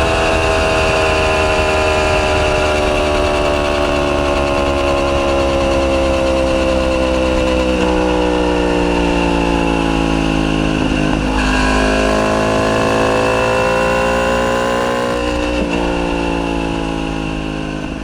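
Yamaha YZF-R1's crossplane inline-four running through a decatted Akrapovic full titanium exhaust. Its note falls slowly in pitch for about ten seconds, then rises again, with brief breaks in the note about eight and fifteen seconds in, and it fades near the end.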